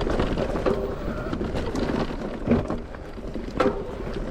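Electric mountain bike being ridden over a wet trail: tyres hissing on wet ground, with rapid rattling clicks from the bike and a few short low hums.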